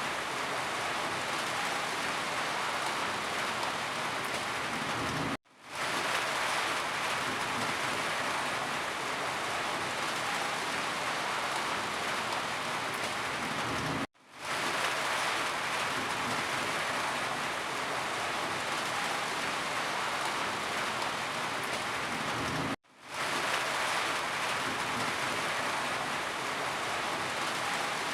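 Steady, even rain with no distinct drops or thunder. Three times, about nine seconds apart, the sound cuts out for a moment and quickly fades back in.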